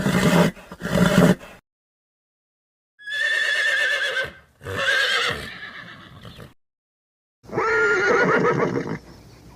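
Horse neighing: several separate whinnies of wavering pitch, each cut off cleanly with dead silence between them, the last one fading out near the end.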